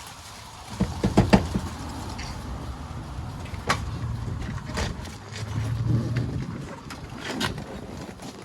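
Hand work on a truck's seat mounts: scattered clicks and metal knocks of tools and parts, a quick cluster about a second in and single knocks later, over a low hum that swells in the middle.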